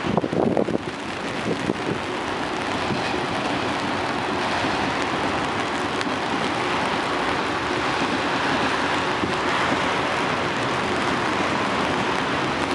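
Steady hiss of heavy rain blended with the rolling noise of a passing autorack freight train, with a few wind bumps on the microphone in the first second.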